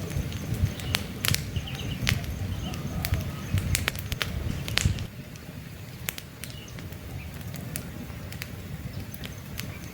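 Wood campfire crackling, with frequent sharp pops and snaps over a low rumble of burning, the rumble easing off about halfway through. Faint bird chirps in the first half.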